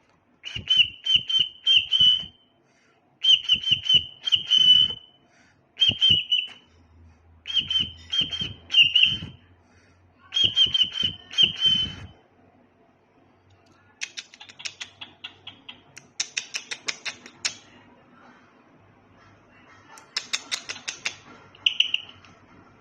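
Cockatiel chirping in quick clusters of short whistled notes, each ending with a slight upward flick, then softer runs of rapid clicking with a couple more chirps near the end.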